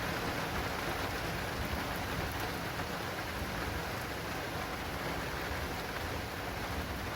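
Steady heavy rain from a thunderstorm, drumming on an acrylic rain canopy.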